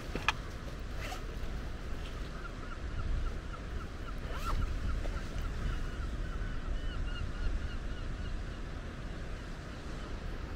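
A bird calling in a fast run of short repeated notes for several seconds in the middle, over wind rumbling on the microphone. A few sharp clicks near the start.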